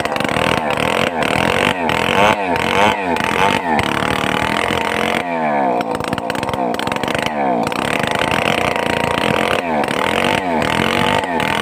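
Stihl 070 two-stroke chainsaw running loud, its engine pitch rising and falling about twice a second as it is revved. It drops back briefly about halfway through, then revs up again.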